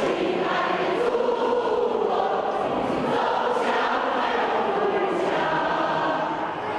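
Large crowd singing a patriotic song together in unison, a dense mass of voices holding long sung notes without a break.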